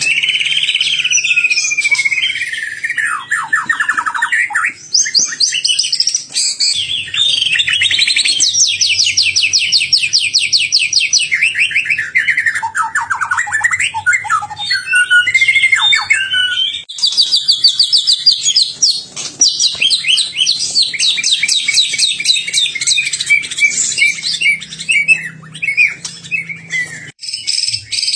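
A caged songbird singing continuously in fast trills of rapidly repeated notes that sweep up and down in pitch: the sharp rapid-fire bursts that bird keepers call 'tembakan'.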